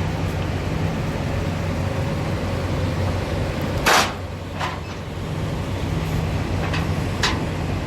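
Truck's diesel engine idling steadily, with a loud short hiss of released air about four seconds in, a weaker one just after, and two more short hisses near the end.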